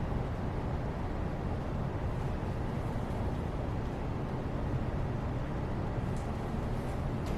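Steady, low-pitched rushing background noise that holds even throughout, with a couple of faint light ticks near the end.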